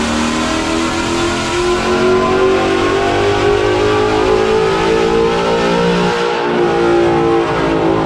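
Ford Coyote 5.0 V8 with aftermarket headers, X-pipe and exhaust, pulling under load on a chassis dyno, its pitch rising steadily as the revs climb.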